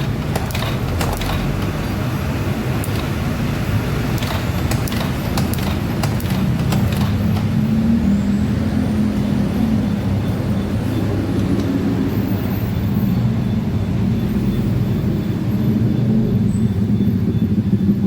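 An engine running steadily with a low, even rumble, with clicks and knocks over the first few seconds.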